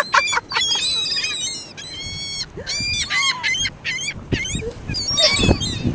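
A flock of seagulls calling: many short, overlapping calls repeating rapidly throughout, with a louder low burst near the end.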